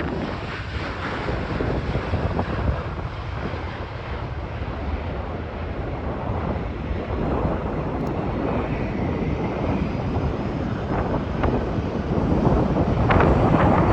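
Jet engine noise from a Boeing 737, heavily buffeted by wind on the microphone.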